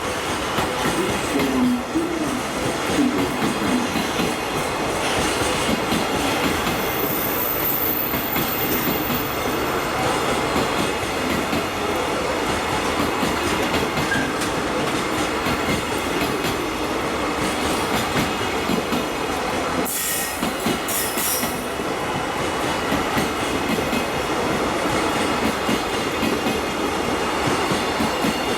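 Freight train rolling steadily past as it pulls out of the station, its wagons' wheels clicking over the rail joints.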